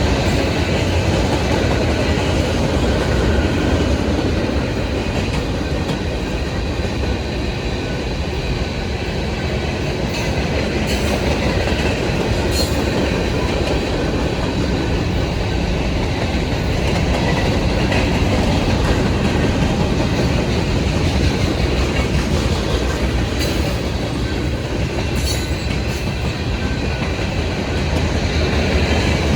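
Freight cars of a manifest train rolling past: a steady rumble of steel wheels on rail with clickety-clack over the rail joints.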